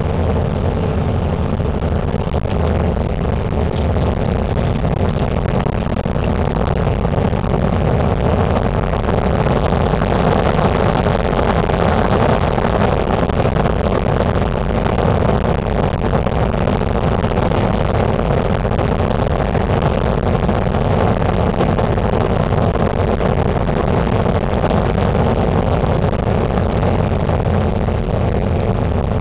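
Steady noise of a jet airliner heard from inside the passenger cabin during landing and taxi: engine and rolling noise that swells a little in the middle.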